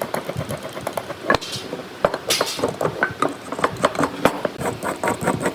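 Workshop clatter: a rapid, irregular run of light knocks and clicks, with two sharper knocks and a brief hiss about two seconds in.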